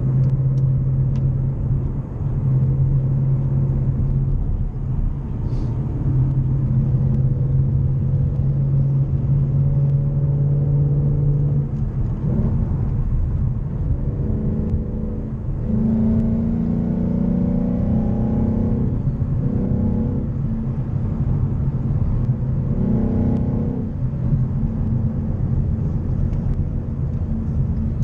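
Car engine and road noise heard from inside the cabin while driving. A steady low drone gives way about halfway through to a higher engine note that climbs and steps in pitch as the car accelerates, with another short rise near the end.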